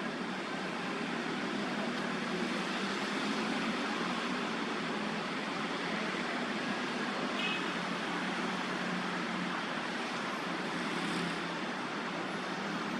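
Steady hiss of distant city traffic. A brief faint high chirp sounds about seven and a half seconds in.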